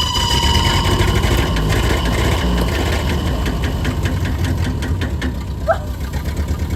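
1929 Ford Model A's four-cylinder flathead engine running steadily at idle with a quick, even firing beat, running fine now that it has fuel after having run dry.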